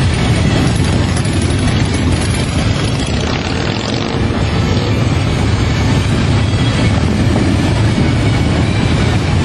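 Motorcycle running steadily: a continuous low engine rumble under a constant rushing noise, with no pauses or changes in pace.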